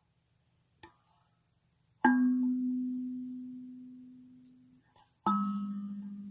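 Kalimba tines plucked slowly, two low single notes, one about two seconds in and another about five seconds in, each left to ring out and fade over a few seconds.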